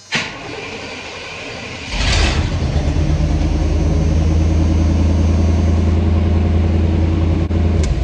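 Stock 305 small-block Chevy V8 with no exhaust system fitted, cranked by the starter for about two seconds before it catches and then idles steadily with open exhaust. It is pretty quiet for a small block with no exhaust on it.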